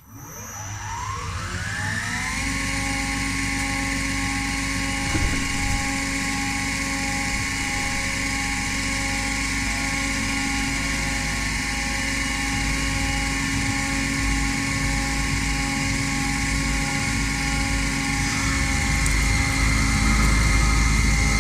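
Electric spindle motor of a CNC milling machine spinning up: a whine rising in pitch for about two seconds, then running steadily at speed. A low rumble grows louder near the end.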